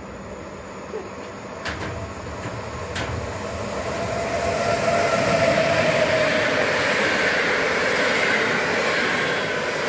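Locomotive-hauled passenger train passing through a station, its rumble and wheel noise growing louder as the locomotive draws level about five seconds in, then the coaches rolling by. A steady whine runs under it and falls slightly in pitch as the train goes past.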